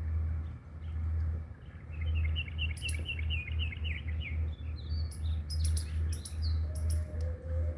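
Small birds chirping, with a quick run of high chirps about two to four seconds in and a few scattered calls and clicks after. A steady low rumble runs underneath.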